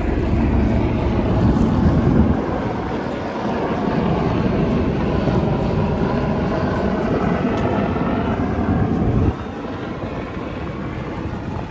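Aircraft engine noise overhead: a steady rumble with a faint whine, mixed with wind on the microphone early on. It drops away suddenly about nine seconds in.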